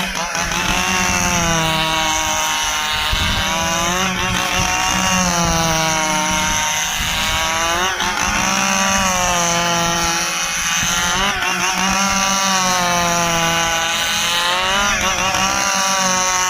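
Stihl chainsaw cutting through a dry ipê stump, running at full throttle. Its pitch sags and recovers several times as the chain bites into the hardwood.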